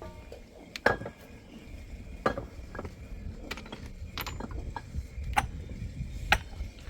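Irregular sharp clinks and knocks of hard objects, about eight in all, a few with a brief ring, over a steady low rumble.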